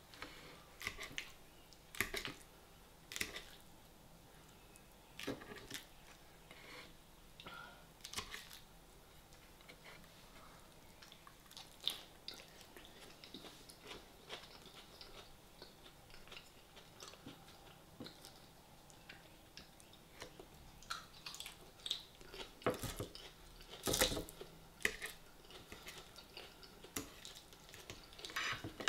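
A person chewing and crunching lettuce salad, with the fork now and then clicking against the plate; the clicks and crunches come irregularly, loudest in a cluster a few seconds before the end.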